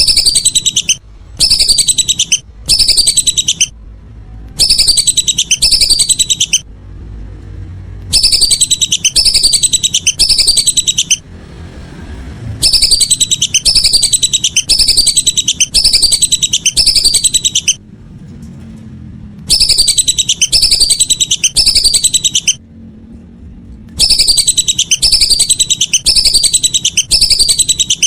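Lesser whistling duck (belibis) calls: rapid trains of shrill, falling whistled notes, loud, in runs of one to several seconds broken by short pauses. The calls repeat steadily, as a lure-call recording played for calling in the ducks.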